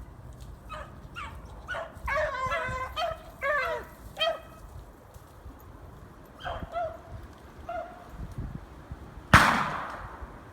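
A pack of beagles baying on a rabbit's trail, several voices in bursts, over a low rumble of wind on the microphone. Near the end, one loud sharp bang that rings off over about a second.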